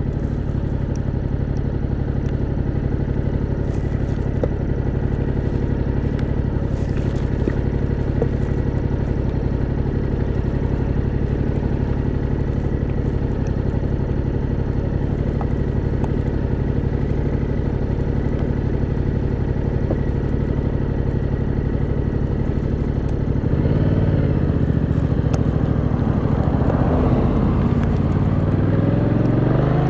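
Yamaha MT-07's 689cc inline-twin engine idling steadily. About three-quarters of the way through it changes, and near the end the revs rise as the bike pulls away through traffic.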